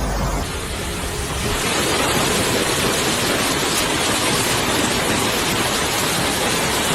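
Steady rushing noise of water, even and unbroken, growing a little louder about a second and a half in.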